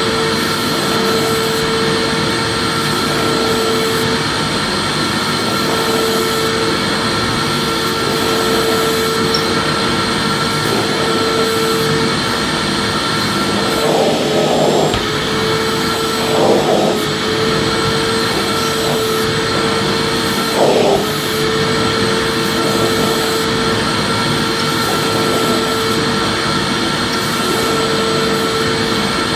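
Vacuum cleaner running steadily, a dense rushing noise with a constant motor whine. The sound wavers briefly three times around the middle.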